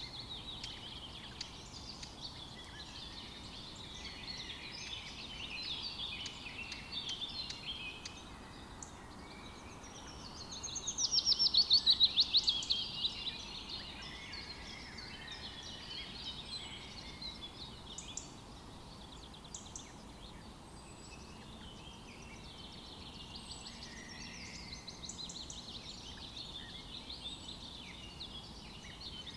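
A chorus of several songbirds chirping and warbling together. About ten seconds in, one bird gives a louder, rapid trill of fast repeated notes lasting a couple of seconds.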